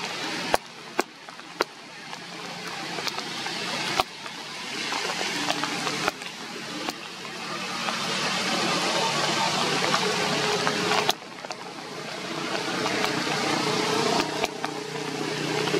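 Rain falling steadily on forest leaves, swelling and easing, with sharp taps of single drops. A low steady hum joins about five seconds in.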